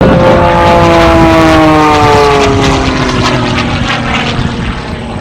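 Propeller airplane flying past, its engine drone sliding down in pitch as it passes and fading away over the last few seconds.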